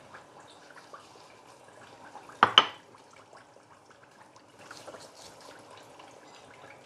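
Faint trickling water, with two sharp knocks in quick succession about two and a half seconds in.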